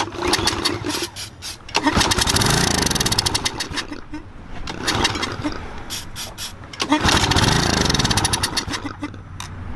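Briggs & Stratton engine on a pressure washer being pull-started twice, each time spinning up and firing briefly on sprayed carb cleaner, then dying away with pops. It fires but won't keep running, the sign that no gas is getting through the carburetor.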